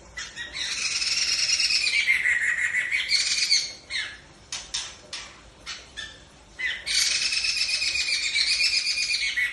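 A songbird singing: two long warbling phrases, one near the start and one in the second half, with short chirps in between.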